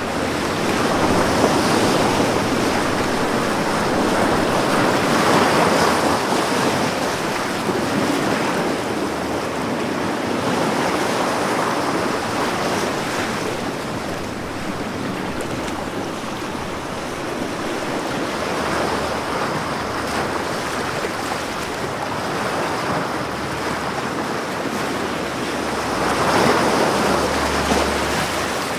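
Ocean waves breaking and washing on a beach, a steady rush of surf that swells with each wave, the strongest surges about five seconds in and near the end.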